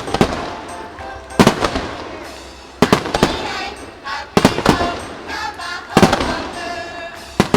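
Aerial firework shells bursting in sharp reports about every second and a half, each followed by a trailing rumble and crackle.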